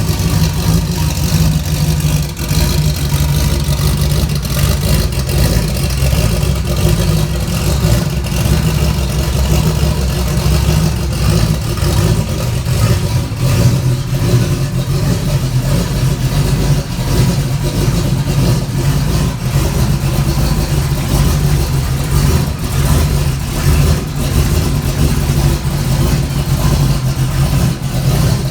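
Turbocharged Foxbody Mustang engine on E85 fuel, idling unevenly just after a cold start. It is loud and uneven, with a choppy idle from its cam, and still rough while cold.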